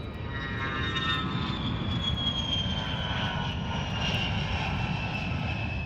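Jet aircraft passing: a steady low engine rumble under a high whine that slowly falls in pitch as it goes by.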